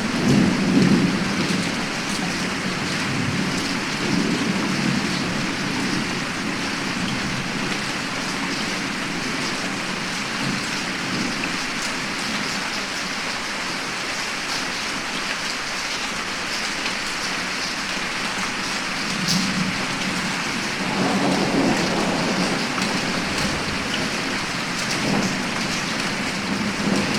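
Heavy rain falling steadily, with rolls of thunder rumbling at the start, again about two-thirds of the way through, and near the end.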